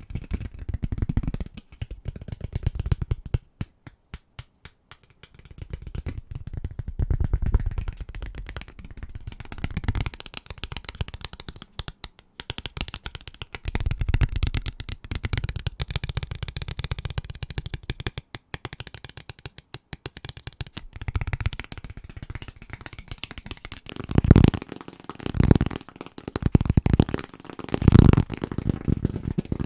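Fast, aggressive fingertip and fingernail tapping on household objects: dense runs of quick taps in uneven bursts, with heavier, deeper knocks in the last few seconds.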